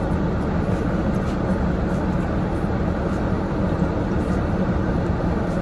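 Steady low vehicle rumble with an even hiss, unbroken and with no distinct events.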